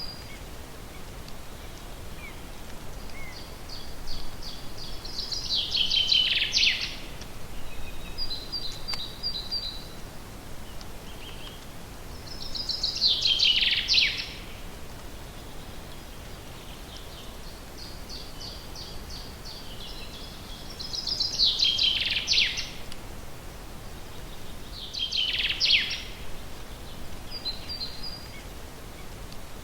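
Forest songbird singing a repeated song four times: a run of quick high notes that ends in a loud, falling flourish. Shorter high chirping phrases come between the songs, over a steady background hiss.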